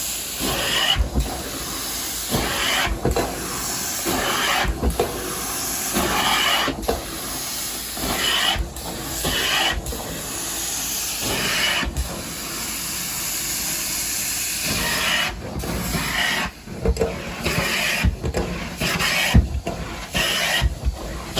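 Hot-water carpet-extraction wand drawn over carpet in repeated strokes: steady hissing spray and suction, with a brief drop at the end of each pass, about every two seconds.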